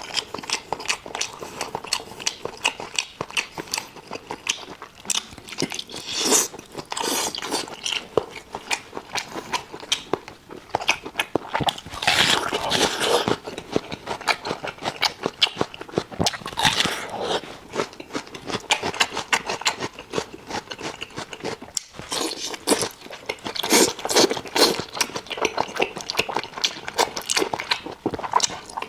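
Close-miked eating of spicy octopus: wet, clicky chewing and biting that keeps going, with louder bursts of smacking every few seconds.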